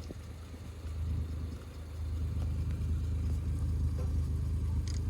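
Small truck engine running at low revs with a steady low hum, getting louder about two seconds in.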